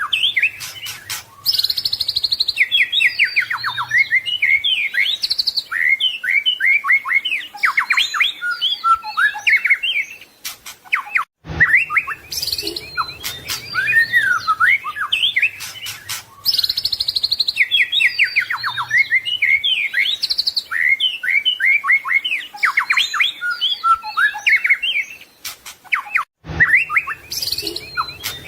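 White-rumped shama (murai batu) singing a fast, varied song of whistled phrases that sweep up and down, full of mimicked phrases ('isian'). The same song passage repeats about every 15 seconds, with a brief break before each repeat.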